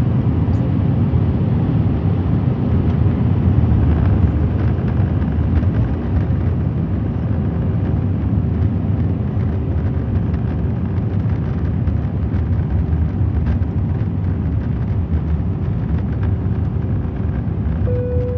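Steady low roar of an airliner's engines and rushing air heard inside the cabin on the approach to landing. A faint steady hum joins about seven seconds in, and a brief higher tone sounds near the end.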